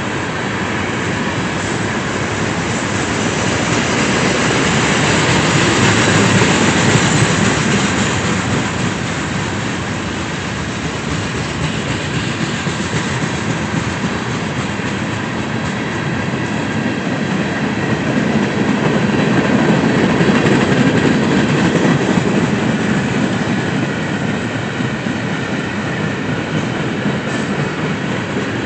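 A train rolling past on the rails, a continuous rumble and rattle that swells louder twice.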